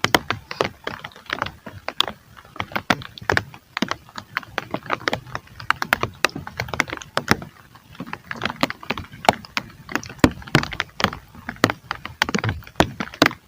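Heavy rain, its drops striking close to the microphone as a dense, irregular run of sharp taps.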